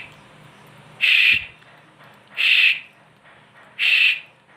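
Pet parrot giving three short, loud, evenly spaced calls about a second and a half apart, with a faint knock between the first two.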